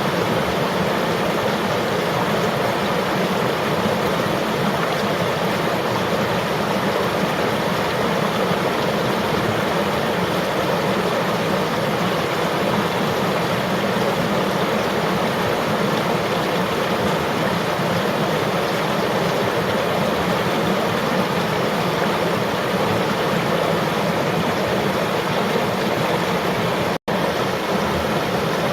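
River water flowing steadily, an even rushing noise broken by a split-second dropout near the end.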